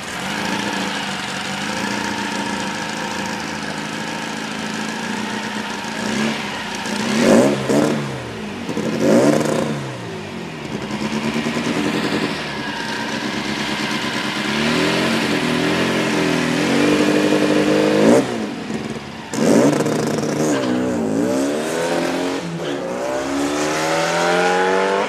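Dune buggy engine idling at the start of a drag pass. It is revved in two sharp blips about seven and nine seconds in, then held at higher revs. About eighteen seconds in it launches hard and accelerates away, its pitch climbing through the gears.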